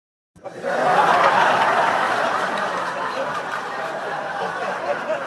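A group of people laughing and chattering together, starting suddenly about a third of a second in and slowly fading.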